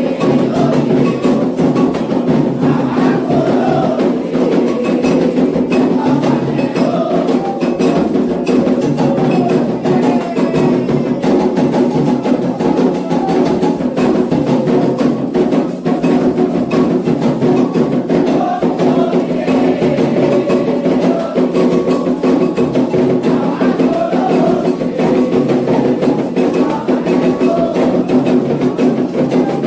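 Candomblé atabaque drums playing a fast, continuous rhythm for Ogum, with sharp clicking strokes from a struck bell or wood-block-like instrument.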